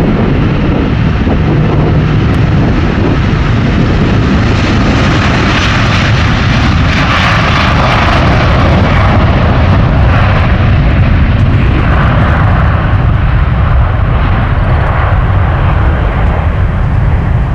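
Boeing 777-200ER's Rolls-Royce Trent 892 turbofans at takeoff thrust, giving a loud, steady jet roar during the takeoff roll.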